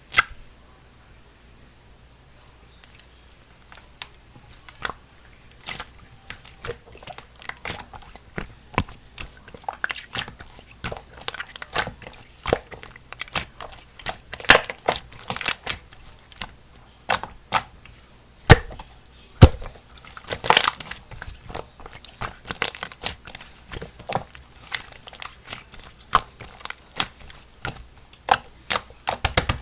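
Sky-blue slime mixed with cloud clay being squished and stretched by hand: an irregular stream of sharp wet clicks and crackling pops. It starts sparse a few seconds in and grows busier and louder.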